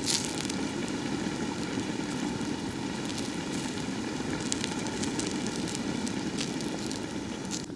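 Open firewood cooking fire burning with a steady rushing noise and scattered sharp crackles and pops.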